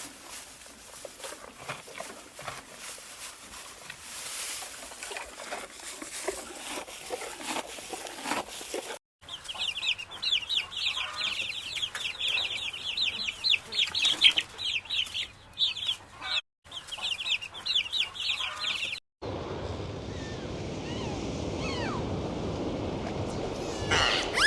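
Birds calling across a few short cuts: first a stretch of rustling and clicks, then, about nine seconds in, a dense run of short, high calls coming several a second, then a lower, noisier stretch near the end.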